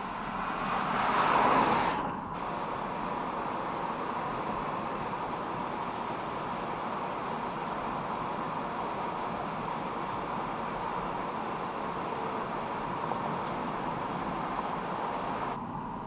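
A car driving. A swell of noise rises to a peak like a close pass and cuts off abruptly about two seconds in, followed by steady road and wind noise that stops suddenly near the end.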